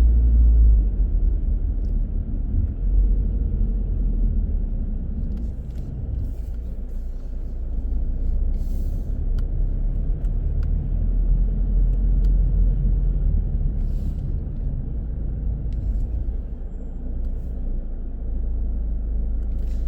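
A car driving: a steady low rumble of engine and road noise, rising and falling a little, with a few faint short crackles and ticks scattered through it.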